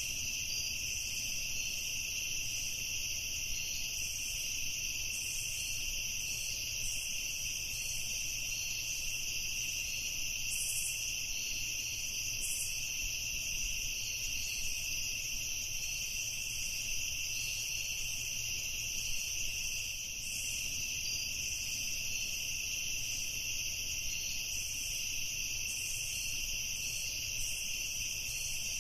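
Evening chorus of crickets: a steady, shrill, unbroken drone of many insects calling at once.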